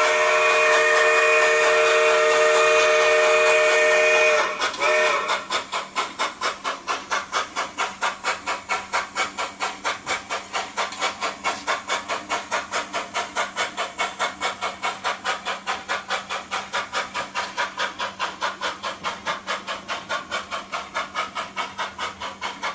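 Sound-equipped model steam locomotive blowing a long multi-tone whistle that stops about four seconds in, giving a brief toot, then chuffing steadily at about four beats a second as it pulls away.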